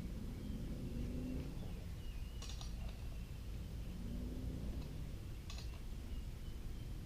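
Two light clicks, about three seconds apart, of small starter parts being handled, over a steady low rumble.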